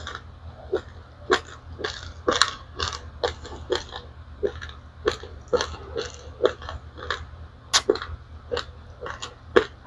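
Close-up crunching and chewing of dry-roasted raw rice grains: sharp, irregular crunches two or three times a second over a steady low hum.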